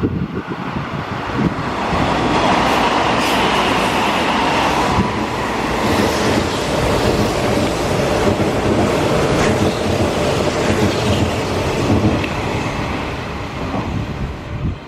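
Hanshin 8000 series electric train running through the station without stopping, its wheels clattering over the rail joints. The noise builds over the first couple of seconds, holds loud and steady, then fades near the end as the train clears.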